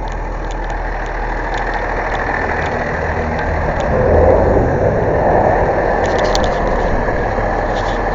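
Vehicle engine running steadily, growing louder about four seconds in, with a few light clicks.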